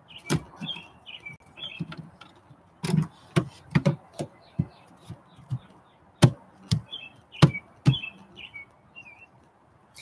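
Small birds chirping in short repeated phrases, with about a dozen sharp knocks or taps scattered through, which are the loudest sounds.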